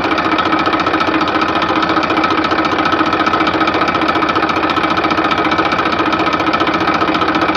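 Mini tractor's motor running steadily with a fast, even rattling pulse and a constant hum, starting and stopping abruptly.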